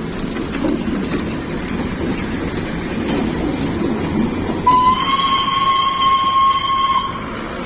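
Train running with a steady rumble, then its whistle blows one long steady note for about two seconds, a little after halfway through.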